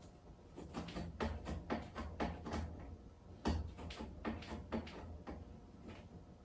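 A door knocking and rattling in a quick, irregular run of about twenty knocks, the loudest about three and a half seconds in, stopping near the end.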